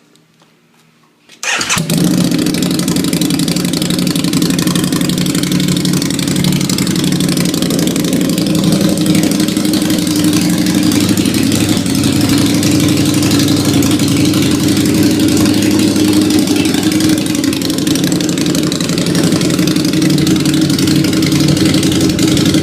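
Harley-Davidson V-Rod Night Rod Special's liquid-cooled V-twin, fitted with a Ground Pounder exhaust, starts about a second and a half in and then idles loudly and steadily.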